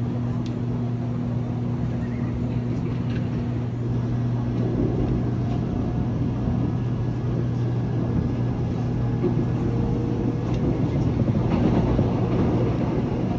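Seoul Subway Line 1 electric train running at speed, heard from on board: a steady rumble of wheels on track under a constant low hum, growing louder about four seconds in.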